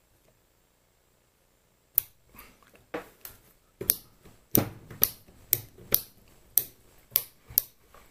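Small metal parts of a mini lathe apron clicking sharply while being adjusted by hand, about a dozen clicks at roughly two a second, starting about two seconds in.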